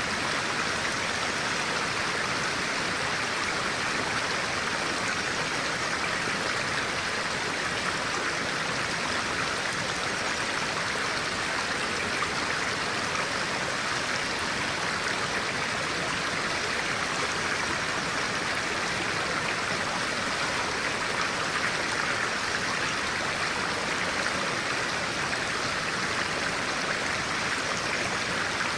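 A clear-water stream flowing steadily: an even, unbroken rush of water.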